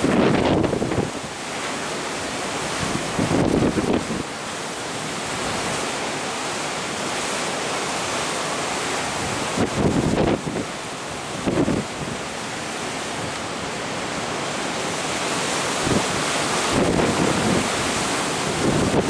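Wind buffeting the microphone in gusts over a steady rush of wind and sea, heard from the deck of a moving ship.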